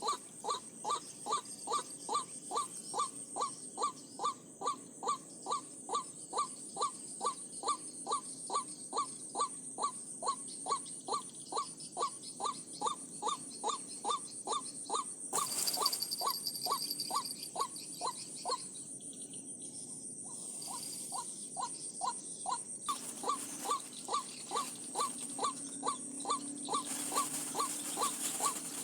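White-breasted waterhen call: short notes repeated very evenly, about two and a half a second, falling silent for a few seconds around two-thirds of the way through and then resuming. A steady high-pitched whine runs underneath.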